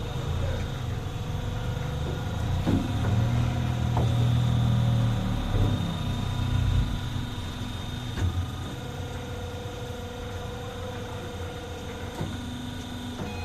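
CNC bundle cutting machine running with a steady mechanical hum and whine, louder for a few seconds in the first half, with a few sharp clicks.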